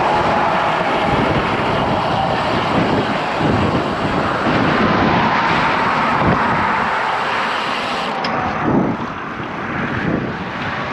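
Steady noise of road traffic with gusty wind buffeting the microphone.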